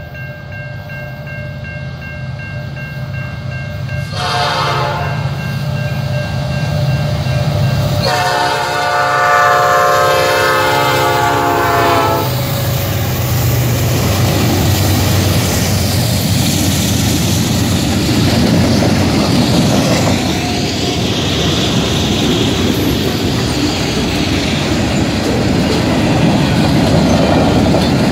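CN freight train with five diesel locomotives approaching a level crossing, sounding its horn: a short blast about four seconds in, then a long blast of about four seconds. The locomotives' engines and the rumble and clatter of the wheels on the rails follow as the train passes close by.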